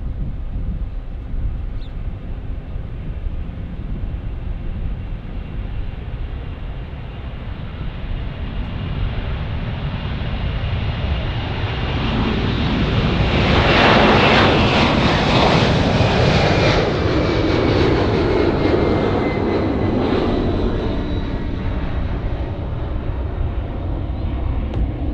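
Jet airliner passing close by: its engine noise builds to a loud peak about halfway through, a whine drops in pitch as it goes past, and the sound then slowly fades.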